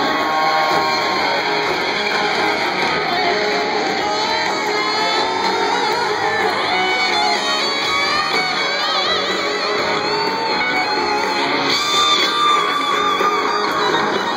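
Live rock band playing, with amplified electric guitars strumming out front.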